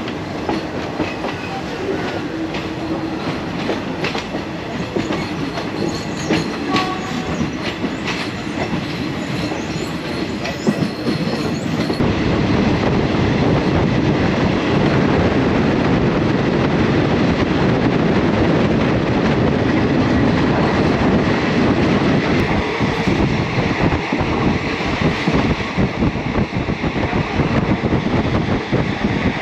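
Third-class passenger train running on the rails, heard from inside the carriage: a steady rattle with scattered clicks of the wheels over the track. About twelve seconds in, the sound jumps abruptly to a louder, denser rushing noise.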